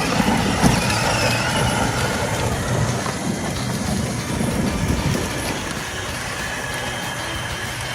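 Kids' ride-on toy monster truck driving, its plastic wheels rumbling and rattling over rough ground.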